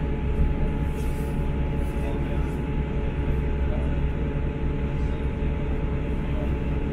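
Onboard running noise of a BR Class 159 diesel multiple unit travelling at speed: a steady rumble of wheels on the rails and the underfloor diesel engine, with a faint steady tone above it.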